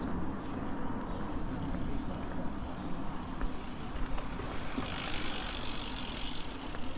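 Outdoor ambience: a steady low rumble, with a hiss that swells about five seconds in and fades a second and a half later.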